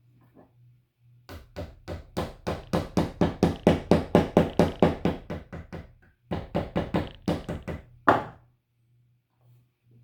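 Rapid knocking on wood, about five knocks a second: a long run, a brief pause, a shorter run, then one louder knock.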